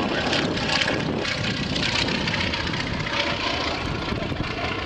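Antonov An-2 biplane flying, its nine-cylinder radial engine and propeller running steadily.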